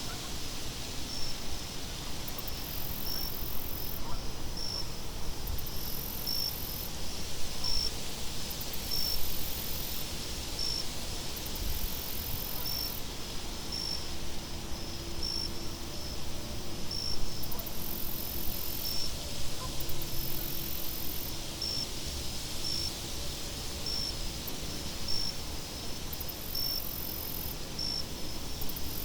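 Crickets chirping: one short chirp repeating evenly about every second and a half, with a higher, hissing trill that switches on and off every second or two. Steady wind noise runs underneath.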